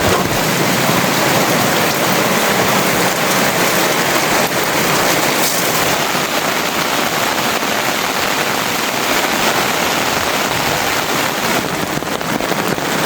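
Heavy rain falling, a steady dense hiss with no letup.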